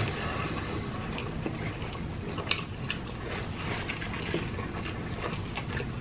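Chewing and small wet mouth clicks of people eating French fries and a burger, the clicks scattered irregularly throughout.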